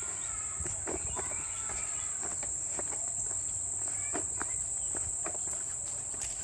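Insects singing in a steady, continuous high-pitched chorus.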